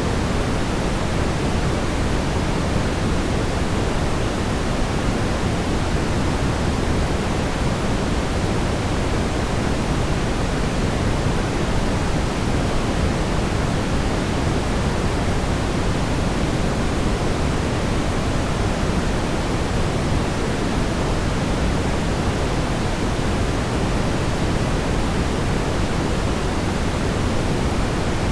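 Steady brown noise: an even, unchanging rumbling hiss, heaviest in the low end.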